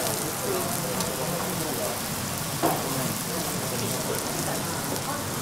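Kuruma prawn heads and legs frying in butter on a teppanyaki steel griddle, a steady sizzle, with one brief sharp knock about two and a half seconds in.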